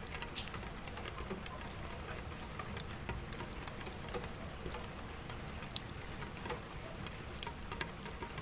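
Steady rain falling, with many separate drops ticking sharply and irregularly on a close surface.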